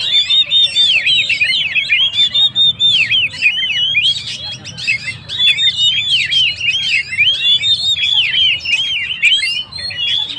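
Oriental magpie-robin (kacer) singing hard, a rapid, unbroken stream of varied, arching whistled notes.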